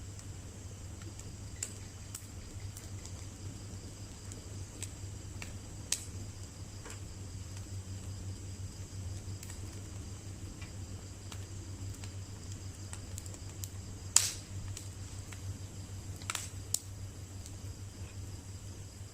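Wood bonfire crackling: scattered sharp pops, a few seconds apart, the loudest about fourteen seconds in, over a steady low hum.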